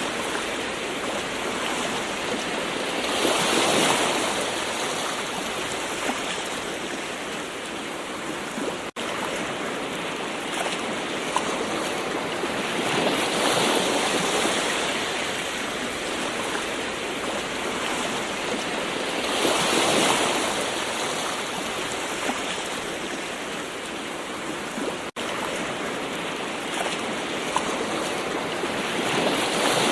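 Gentle ocean waves washing in, a steady hiss of water that swells at intervals of several seconds as each wave comes in. There are two momentary dropouts in the sound.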